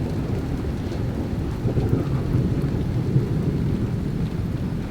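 Thunder rumbling steadily over a rain shower.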